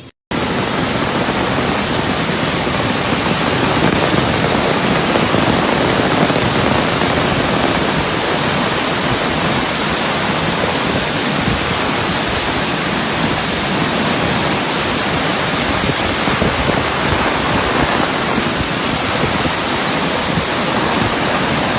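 Loud, steady rushing noise with no break in it, cutting in suddenly just after the start.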